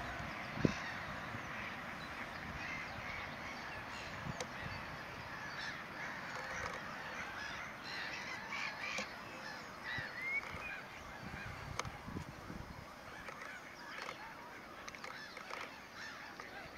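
Black-headed gulls calling: many short, harsh calls overlapping in a continuous colony chorus. A single sharp click stands out under a second in.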